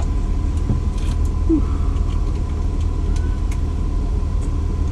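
Steady low background hum with a faint thin whine, and a few light scattered clicks of a small bolt and Allen key being worked into a fan mount.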